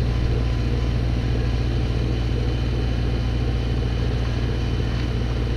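Snowblower engine running steadily at a constant speed, close and loud.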